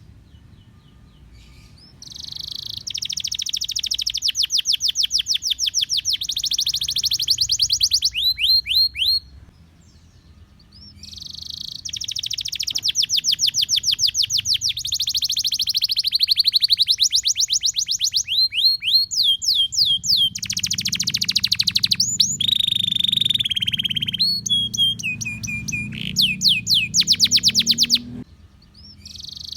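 Canary singing long phrases of fast, high trills and rolls, each phrase running several seconds. There are brief pauses about nine seconds in and near the end.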